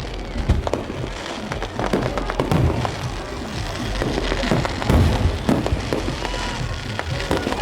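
Many fireworks and firecrackers going off at once, a dense run of overlapping bangs and cracks. Music plays underneath.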